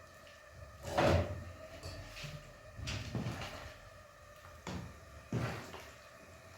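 A handful of knocks and bumps, like doors or cupboards being handled, the loudest about a second in, over a faint steady hum.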